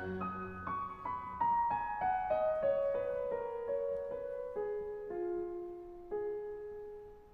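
Soft piano background music: a slow melody of single notes stepping downward, the notes spacing out and the sound fading near the end.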